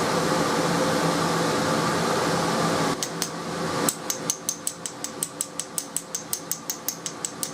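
Hand-forged coil-spring steel striker scraped quickly and repeatedly along a ferrocerium rod, about five short rasping strokes a second, beginning about three seconds in. Before that, a steady fan-like hum that cuts off.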